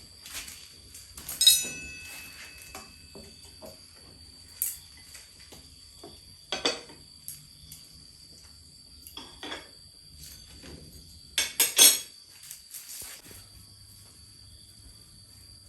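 Scattered clinks and knocks of hard objects being handled. One about a second and a half in rings briefly, and a loud cluster comes near the end. A steady high insect chirr runs underneath.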